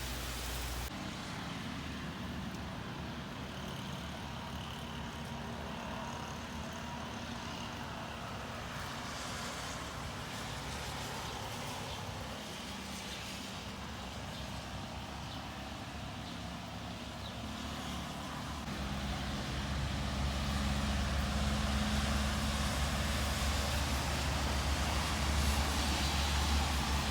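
Steady rain noise with a motor vehicle's low engine rumble that grows louder about two-thirds of the way through.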